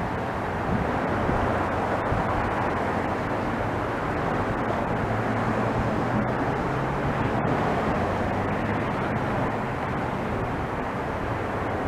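Steady rumble of a train rolling past, with a low hum underneath.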